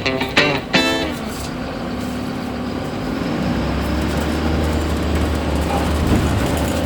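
MAZ-103 city bus running on the move: a steady engine and road drone whose low hum grows louder about halfway through.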